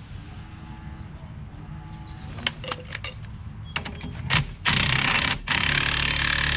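Impact wrench hammering on the forcing screw of a ball joint press to push a bushing out of the leaf spring. A few sharp clicks come first, then the wrench runs in two loud bursts from about two-thirds in, with a short break between them.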